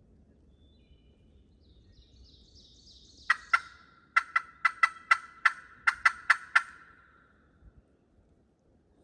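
Turkey cutting: after a faint scratchy lead-in, about eleven sharp, loud clucks come fast and uneven for about three seconds, then stop.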